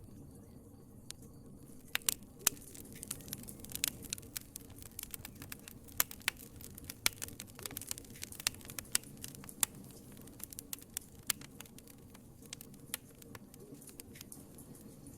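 Wood fire crackling in a fireplace: irregular sharp pops and snaps over a low steady rumble of flames, the pops coming thick from about two seconds in.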